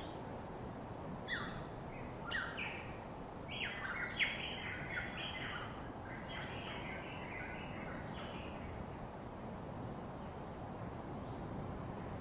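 Tropical birds calling in a quick run of short, sharply falling chirps, crowded together from about a second in until past the middle, then dying away, over a steady background hiss and a constant thin high tone.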